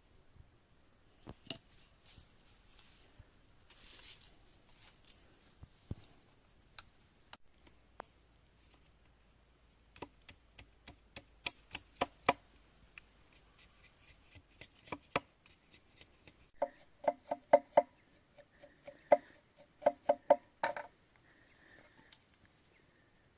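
Hands working small materials make sharp clicks and knocks, scattered at first and busier from about ten seconds in. From about sixteen seconds, clusters of short repeated pitched notes join them.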